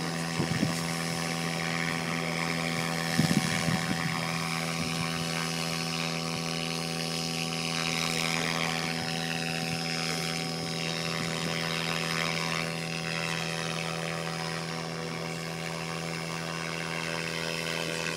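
Electric 700-class Miniature Aircraft Whiplash RC helicopter in flight: a steady rotor hum with a higher motor whine that slowly rises and falls as it manoeuvres. A few brief knocks about three seconds in.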